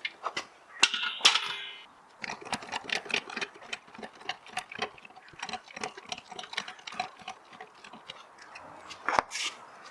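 Metal hand tools being handled: a jangling clatter about a second in, then a run of quick, irregular clicks and taps, and a sharper knock near the end.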